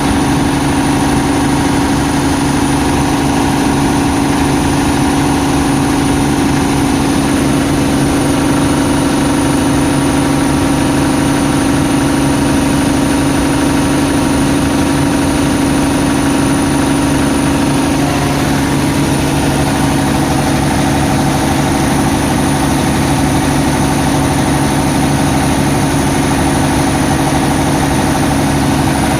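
Cummins gas-engine generator set running steadily at constant speed, with a thin steady high whine over the engine.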